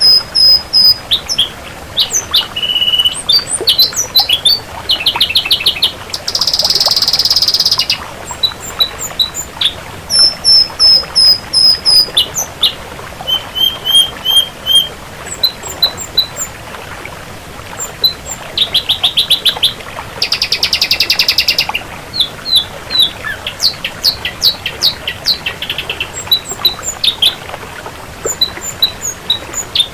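Ashy drongo singing a varied, loud song: runs of clear repeated whistled notes, fast rattling trills and chattering phrases, with two longer harsh buzzy notes, about seven seconds in and again about two-thirds of the way through.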